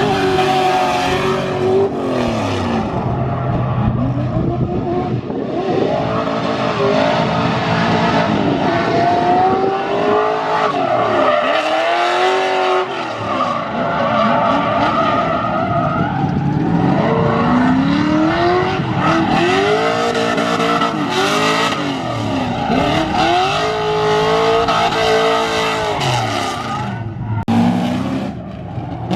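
Drift cars out on track: engines revving up and down over and over as they slide, with tyre squeal throughout.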